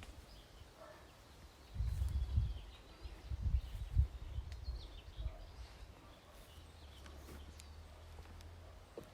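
Faint birds calling in woodland, a few short chirps, with irregular low rumbles on the microphone that are loudest a couple of seconds in and again around four seconds.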